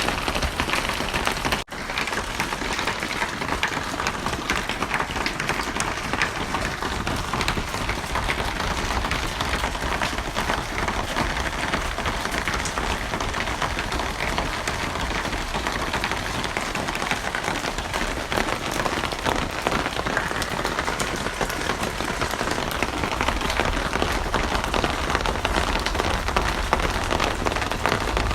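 Steady rain falling, a dense even patter of drops on a surface. It cuts out for an instant about a second and a half in, then carries on unchanged.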